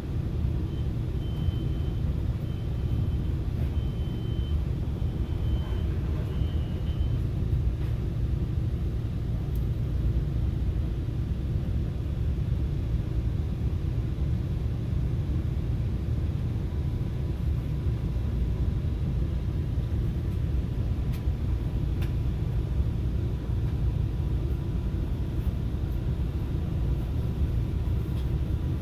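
Steady low rumble of a FrontRunner commuter train running along the track, heard from inside a passenger car. A faint high-pitched tone comes and goes during the first few seconds.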